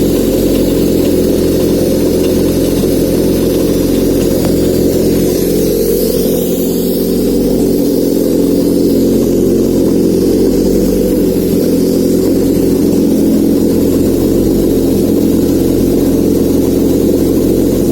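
Honda K24A 2.4-litre four-cylinder engine running steadily at idle on a test stand, out of the car.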